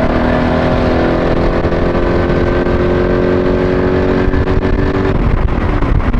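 Lexus SC400's 1UZ V8 running loud through a custom stainless-steel exhaust while driving. The revs climb slowly and steadily, then fall away about five seconds in and settle lower.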